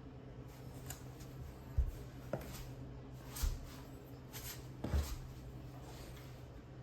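A few scattered knocks and clicks of objects being handled, with three duller thuds among them, over a steady low hum.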